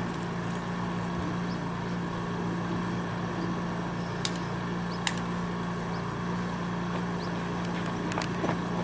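A steady droning background with a constant low hum. Two sharp claps about a second apart stand out near the middle, with a few lighter clicks near the end, typical of the two ritual hand claps at a Shinto offering.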